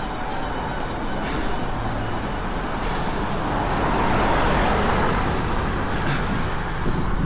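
A car passing on the road, its noise swelling to a peak about four to five seconds in and then fading, over a steady rush of wind and road noise.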